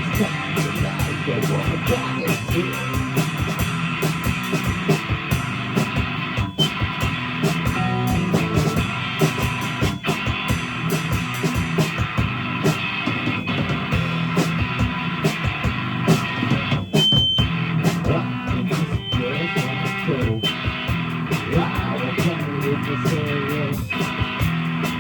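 Live rock band playing: electric guitar and bass over a drum kit with a steady beat.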